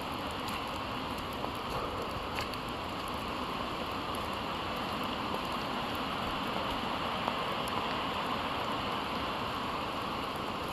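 Steady rain falling in forest: an even hiss of rain with a few separate drop ticks, one about two seconds in and another near seven seconds.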